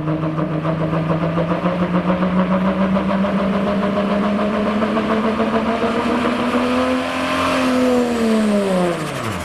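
Diesel 4x4 pickup truck pulling the sled at full throttle, its engine pitch slowly climbing. About seven and a half seconds in, the throttle comes off and the engine drops away sharply, with a high whistle falling with it.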